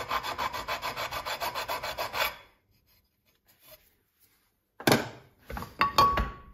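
A hand tool rubbing quickly back and forth, about five strokes a second, as in filing or sanding, stops a little over two seconds in. After a short quiet come a few loud knocks and clatter, one with a brief metallic ring.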